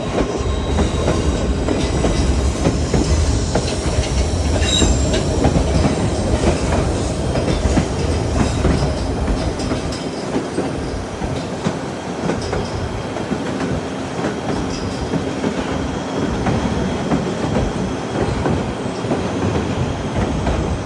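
White Pass & Yukon Route narrow-gauge train running along the track: a steady rumble of wheels on rail with clickety-clack, and a brief high wheel squeal about five seconds in.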